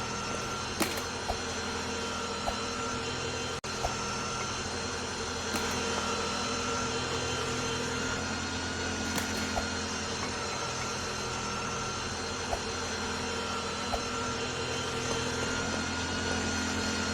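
A steady mechanical drone, an even noise with several constant tones in it, with a few faint clicks now and then.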